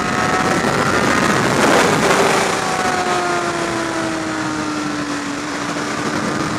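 Motorcycle running at speed under heavy wind and road rush, its engine note sliding slowly down as the bike eases off. The wind noise swells about two seconds in.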